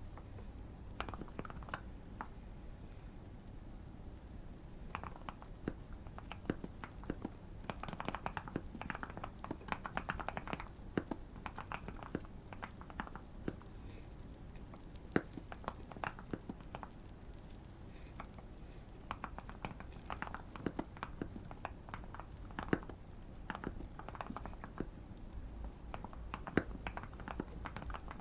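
Typing on a Keychron Q1 mechanical keyboard modded with tape, PE foam and cotton. Quick runs of key clicks come in bursts with short pauses, busiest about a third of the way in and through the last third.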